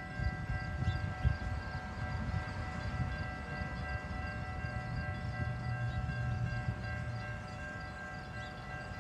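Metra commuter train approaching slowly from a distance: a low rumble, with a steadier hum in the second half, under steady high ringing tones.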